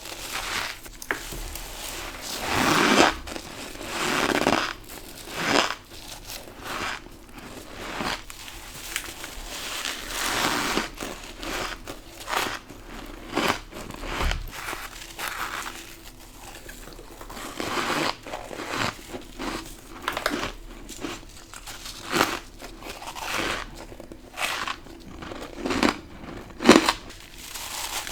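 Bites and chewing of crunchy humidifier-grown freezer frost, a crunch every second or two with softer crackling between.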